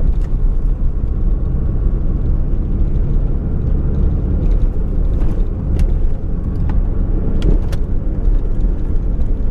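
Fiat Uno driving, heard from inside the cabin: a steady low engine and road rumble, with a few light clicks in the middle.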